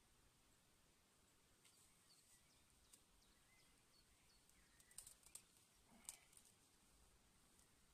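Near silence: outdoor ambience with faint, distant bird chirps and a few soft clicks about five and six seconds in.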